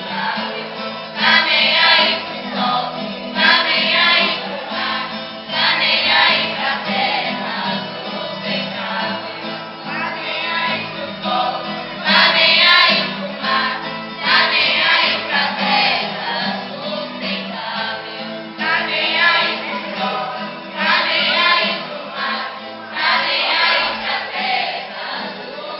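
Choral music: a group of voices singing phrases over an instrumental accompaniment.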